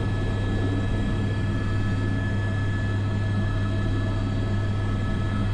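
Airbus AS350 B3 helicopter's turbine and rotors running steadily, heard from inside the cockpit: an even low drone with a steady whine above it, while it works a long-line sling load.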